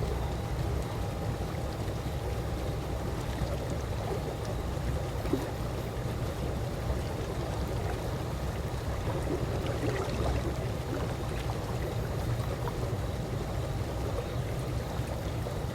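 Calm swimming-pool water lapping and gently splashing, with small drips and trickles over a steady low rumble.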